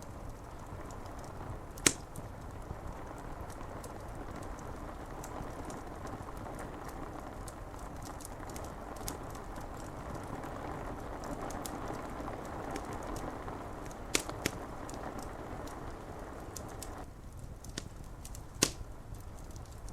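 Steady hiss of rain with a wood fire crackling, giving a few sharp pops: one about two seconds in, a quick pair around fourteen seconds, and another near the end.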